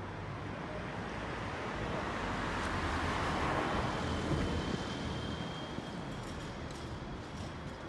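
A motor vehicle passing on a city street, its tyre and engine noise swelling to a peak about halfway through and then fading, over a steady low traffic hum.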